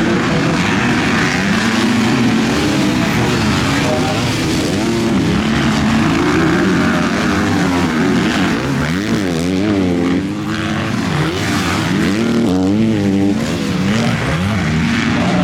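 Several MX2 motocross bikes racing together, their engines revving up and dropping back over and over as they shift gears and accelerate, the overlapping engine notes rising and falling throughout.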